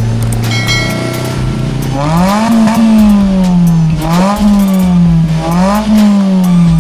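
Car engine idling through an aftermarket HKS Hi Power Titan stainless muffler with the resonator deleted, then revved in three throttle blips, about two seconds in, near the middle and near the end, each rising quickly and sinking back toward idle.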